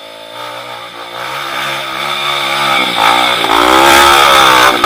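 Trail motorcycle engine ticking over, then revved up and down repeatedly and growing much louder. It is loudest near the end, then drops off sharply.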